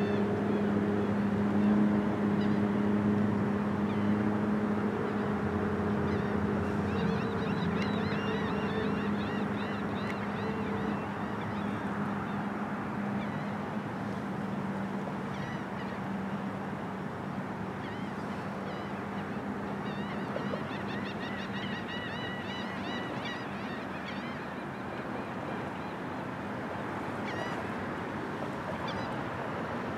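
Birds calling in several runs of short repeated notes over a steady background wash. A low steady hum is also heard, fading out about twelve seconds in.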